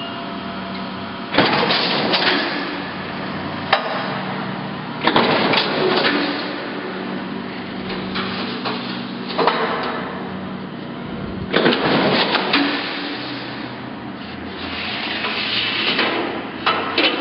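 Wysong mechanical power shear running under its 10 horsepower motor with a steady hum. Its ram cycles several times a few seconds apart, each stroke a loud clanking crash, with sharper single clacks in between.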